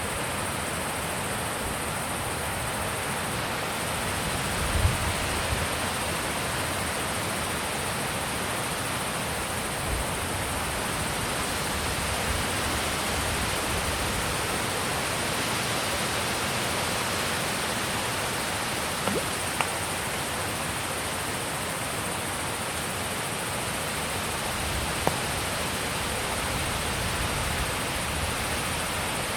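Mountain wind blowing steadily, an even rushing hiss, with a few brief low thumps about five and ten seconds in.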